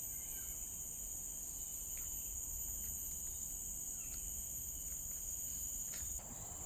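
Steady, high-pitched insect chorus, a shrill continuous drone at two pitches, with a few faint brief chirps over it.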